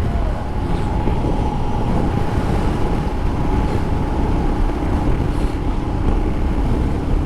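Motorcycle cruising at steady road speed, wind rushing over the microphone with a steady engine drone underneath.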